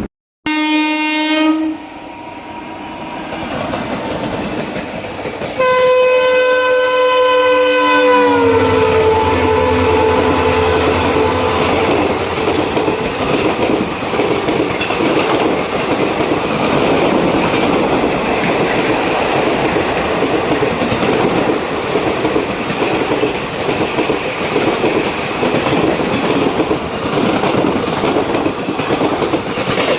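An EMD WDP4-series diesel locomotive sounds its horn: one short blast, then a longer blast about five seconds later that drops in pitch near its end as the locomotive passes. A passenger train then rumbles steadily by, with the low hum of the diesel engine and the clickety-clack of wheels over rail joints.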